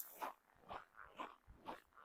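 Footsteps crunching on packed snow in −23 °C cold, a steady walking pace of about two steps a second.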